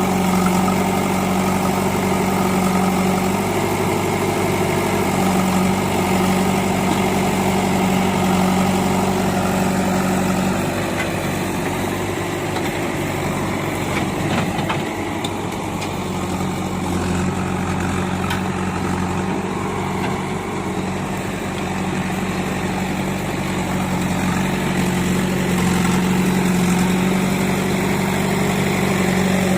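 Diesel engine of a JCB 3DX backhoe loader running at a steady speed. Its steady hum falters for a few seconds about halfway through, with a few faint knocks, then settles again.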